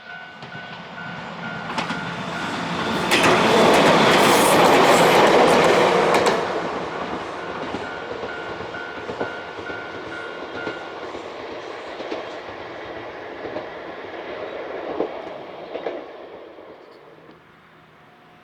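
Japanese level-crossing alarm ringing its repeated 'kan-kan' while a Nankai Koya Line train passes. The train's noise swells to its loudest a few seconds in, then the wheels click over the rail joints as it runs off and fades, with the alarm heard again partway through.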